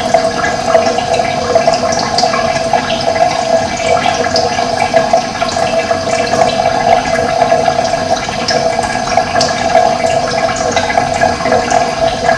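Running water flowing steadily, an even rushing sound that never lets up, with short high-pitched chirps scattered through it.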